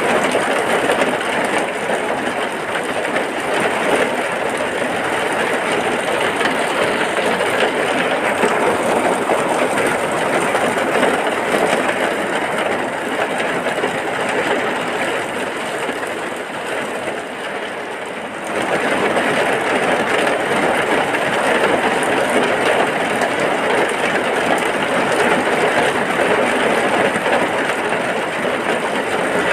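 Heavy rain falling as a steady, even hiss. It softens slightly for a few seconds and comes back at full strength abruptly about two-thirds of the way in.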